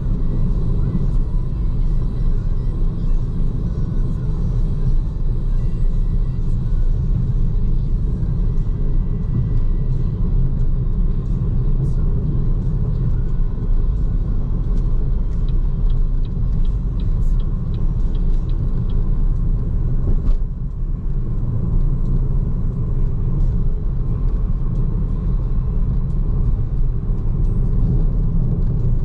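Steady low road rumble from a BYD Seagull electric hatchback's tyres as it drives along, with no engine note. It dips briefly about two-thirds of the way through.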